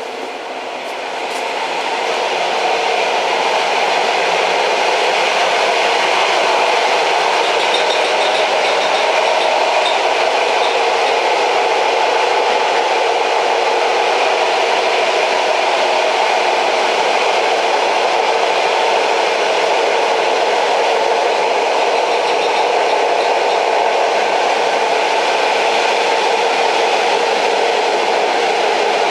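An old train in motion: a steady, even running noise that swells over the first few seconds and then holds level.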